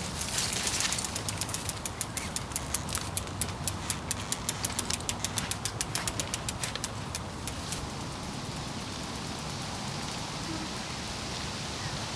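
Bicycle freewheel ticking rapidly and evenly as the bike rolls along, fading out after several seconds, followed by a steady hiss.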